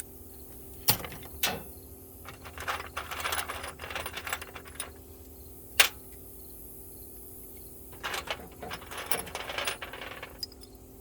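Small metal hand tools clinking and rattling as they are handled and sorted in a toolbox, with a few sharp single clacks, one about a second in and a louder one near the middle, and two busier stretches of clattering.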